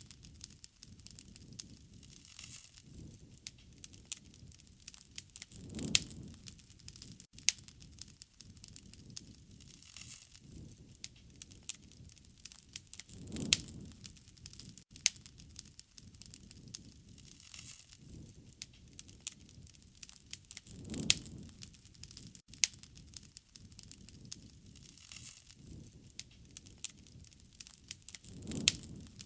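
Wood fire crackling, with frequent sharp pops and snaps and a soft low rush that swells and fades about every seven and a half seconds.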